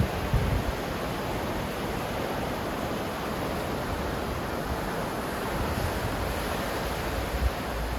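Ocean surf washing in a steady rush, with a couple of brief low thumps, one right at the start and one near the end.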